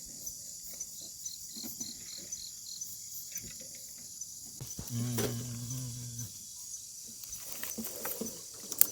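Night insects, crickets or similar, chirping in a steady, pulsing high-pitched chorus. About five seconds in, a low flat hum sounds for about a second and a half, and a sharp click comes near the end.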